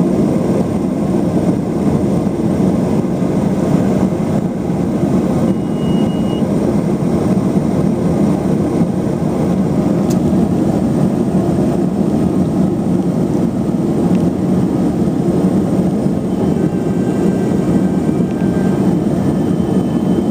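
Let L-410 Turbolet's twin turboprop engines running steadily, heard as a loud, even drone from inside the cabin.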